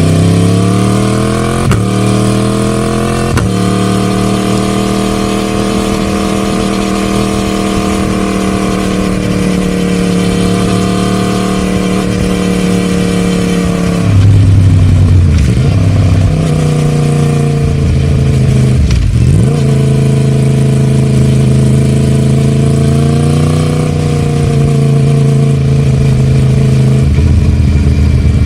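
Yamaha MT-10 Gen 2's crossplane inline-four, running through a decat link pipe and the stock silencer, pulling under load. It revs up through short breaks in the first few seconds and then holds a steady pitch. Around the middle the pitch twice drops and climbs back, and it rises again near the end.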